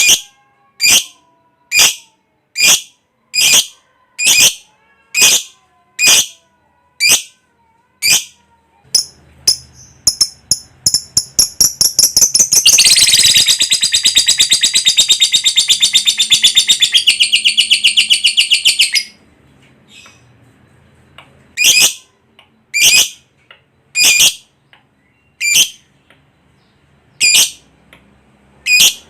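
Lovebird calling: high-pitched single chirps a little under a second apart speed up into a long, fast chattering trill, the 'ngekek', lasting about six seconds. After a short pause the single chirps start again.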